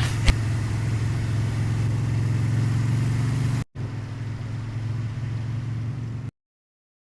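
Motorcycle engine idling steadily with a low, even hum. It drops out for an instant a little past halfway, resumes slightly quieter, then cuts off abruptly about six seconds in.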